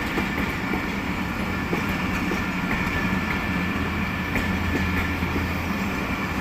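Pakistan Railways train running on the track: a steady rumble with a low hum.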